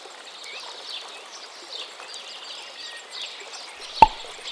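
A chorus of small birds chirping and twittering over a steady hiss of outdoor ambience, with a single sharp click about four seconds in.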